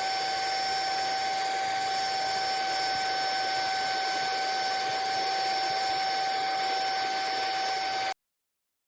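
lautux Turbotastic Pro 2 cordless handheld vacuum cleaner running at a steady speed: a constant high motor whine over the rush of air, cutting off abruptly about eight seconds in.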